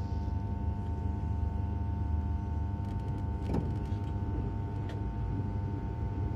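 Cabin noise of a high-speed electric multiple-unit train running at speed: a steady low rumble with a steady whine on top. Two short knocks sound about midway.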